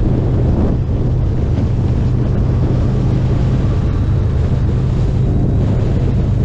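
Harley-Davidson Street Glide Special's V-twin engine running steadily on the move, with wind rushing over the microphone.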